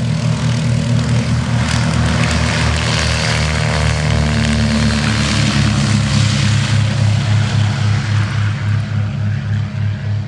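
De Havilland Dragon Rapide biplane's twin six-cylinder Gipsy piston engines running loudly as the aircraft passes close by, with a low pulsing propeller beat and the pitch sliding as it goes past about halfway through.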